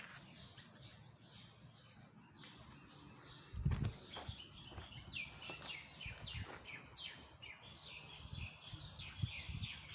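Bird chirping: a fast run of short, falling chirps that starts about halfway through and keeps on. A dull thump just before the chirping is the loudest sound.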